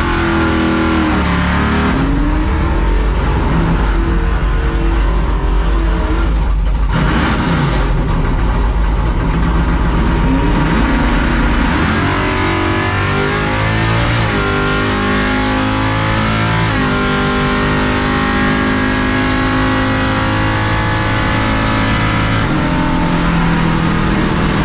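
Drag truck's race engine revving and running hard through a drag strip pass, with its pitch climbing about halfway through, under background music.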